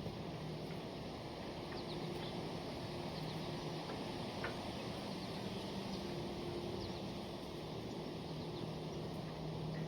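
Steady outdoor background with a low hum, and a few faint, brief high chirps from small birds scattered through it.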